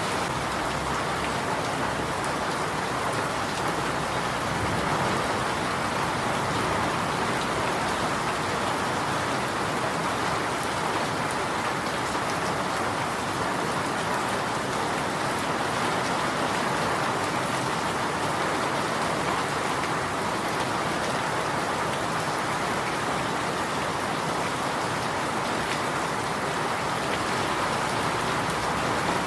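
Steady rain falling on surfaces, an even hiss with fine pattering drops.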